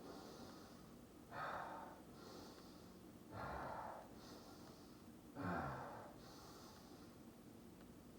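A man breathing heavily in a slow, even rhythm: three strong breaths out about two seconds apart, each followed by a fainter, hissier breath in. The last breath out carries a short falling groan.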